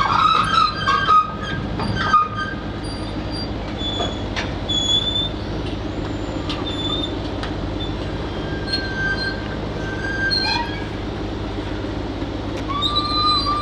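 Heavy diesel machinery running steadily, with high metallic squealing near the start and again near the end, and short squeaks and knocks in between.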